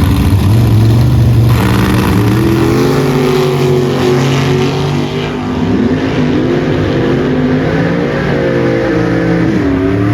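Two bracket drag-race cars launching off the line about a second and a half in and running hard down the strip. Their engine pitch climbs and drops back several times as they shift through the gears.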